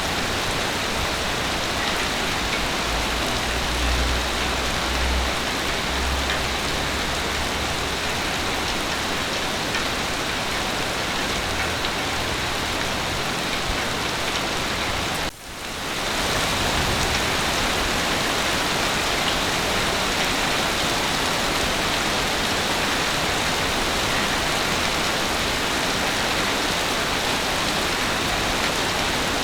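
Heavy rain falling steadily, with a low rumble a few seconds in. The sound cuts out for an instant about halfway through.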